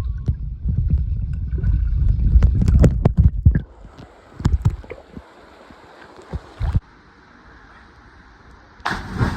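Heavy wind buffeting and knocking on the microphone during a cliff jump for the first three and a half seconds, then quieter water sloshing and gurgling with a few knocks, and a sudden loud rush of water noise near the end.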